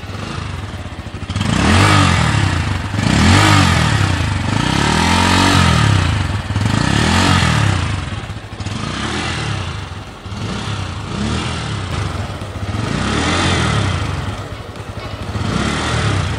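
Bajaj Pulsar N160's single-cylinder engine being revved repeatedly while standing, its pitch climbing and falling about every two seconds.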